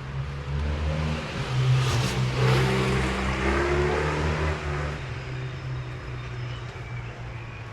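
A car driving past, its engine accelerating with rising pitch, and tyre noise rushing on the wet road as it goes by about two to three seconds in, then fading.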